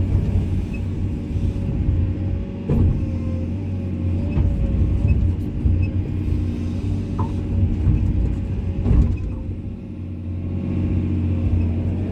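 Komatsu excavator's diesel engine running steadily under load with a held whine above it, and a few sharp knocks at irregular points, the loudest about three seconds in and near nine seconds. The engine eases off briefly near the end.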